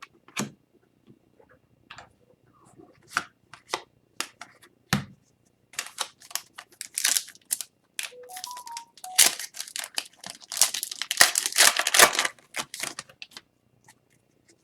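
Hockey card pack wrappers being torn open and cards handled: scattered clicks and snaps at first, then a dense run of crinkling and tearing in the second half.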